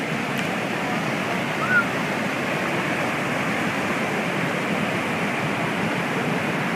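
A mountain stream in flood rushing past, a steady loud rush of water; a normally dry stream swollen overnight into a raging river.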